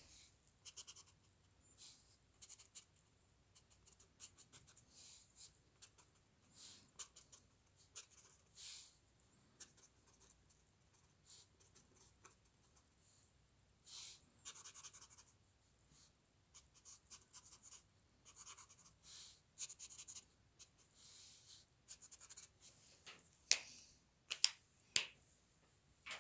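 Hand-drawing strokes on paper: short, irregular scratchy strokes of a drawing tool, with a few sharper, louder strokes near the end.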